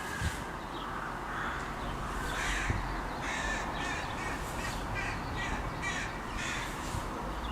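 Crows cawing: a run of harsh calls repeated about twice a second, starting about two seconds in and stopping near the end, over a steady background hiss.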